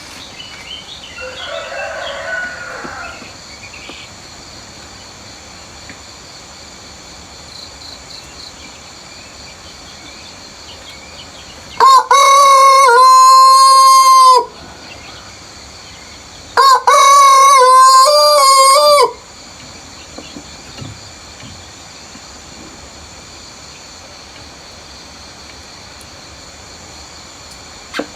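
A rooster crowing twice, each crow loud and lasting about two and a half seconds, the second starting about two seconds after the first ends.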